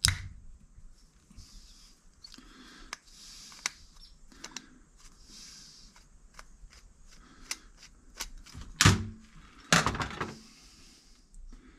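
Small parts of a Honda CA160 carburetor and hand tools clicking and tapping on a workbench while a jet is worked out, with a couple of short hissy rustles and two louder knocks near the end.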